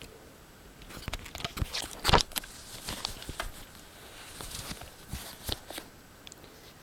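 Scattered clicks, knocks and rustling at irregular times, the loudest knock about two seconds in.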